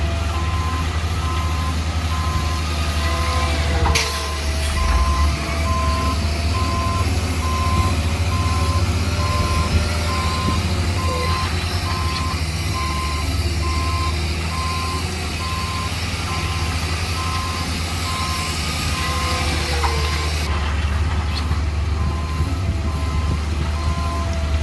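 Reversing alarm of a heavy construction machine beeping steadily in an even rhythm, over the low, steady running of its diesel engine. There is one sharp click about four seconds in.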